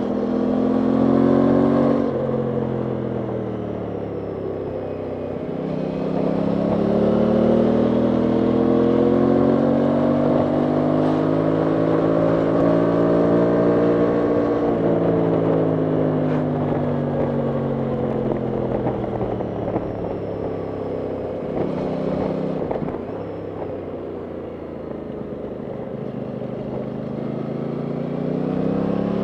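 Aprilia Tuono 660 Factory's parallel-twin engine under way, its pitch rising and falling as the throttle is opened and closed. It drops off sharply about two seconds in and again past the middle, then climbs again near the end, over wind rushing across the microphone.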